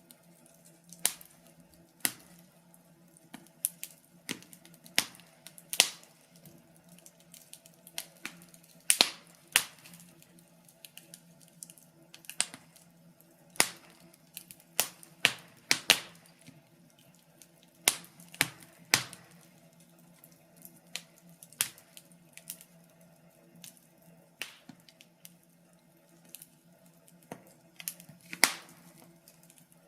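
Wood fire crackling: irregular sharp pops and snaps, a few every couple of seconds and some much louder than others, over a faint steady low hum.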